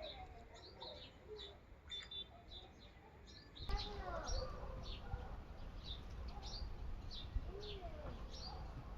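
Sparrows chirping: many short, high chirps repeated throughout. Steady low background noise grows louder a little under four seconds in.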